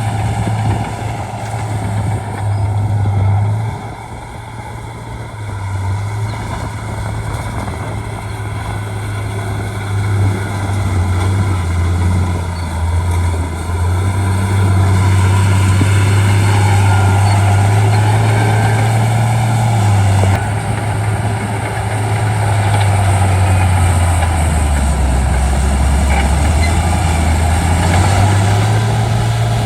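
Shantui D95 crawler bulldozer's diesel engine running under changing load, its low drone shifting up and down in pitch. It eases off briefly about four seconds in and runs louder from about halfway on.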